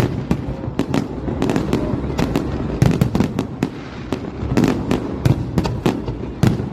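Fireworks display: rapid, irregular cracks and bangs of bursting shells, several a second, over a continuous low rumble.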